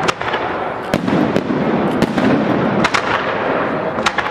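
Fireworks display: a dense run of firework bursts, with sharp bangs about once a second over a continuous crackle.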